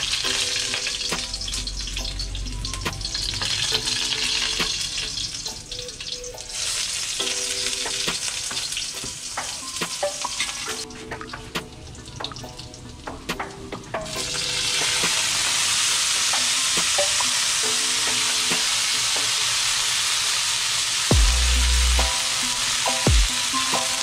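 Chopped garlic and spices sizzling in hot oil in a wok, stirred with a spatula that clicks against the pan. About fourteen seconds in, chopped string beans go into the hot oil and the sizzle turns suddenly louder and fuller.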